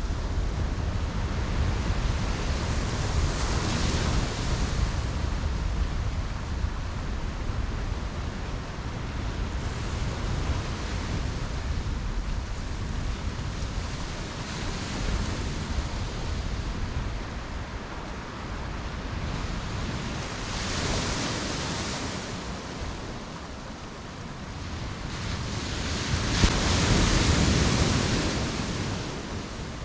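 Ocean surf breaking on a beach: waves roll in and wash back about every five to six seconds over a steady low rumble, the biggest wave near the end.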